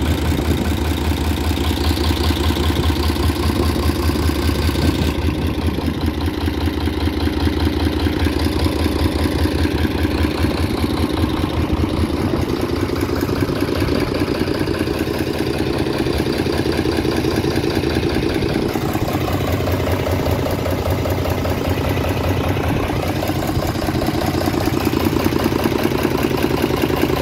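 Deutz F6L912 air-cooled six-cylinder diesel engine running steadily at about idle, with an even pulsing beat; its tone shifts slightly about five seconds in and again near twenty seconds.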